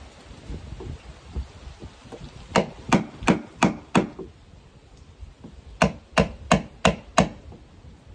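Hammer blows, two runs of five quick strikes about three a second, with a pause of nearly two seconds between the runs.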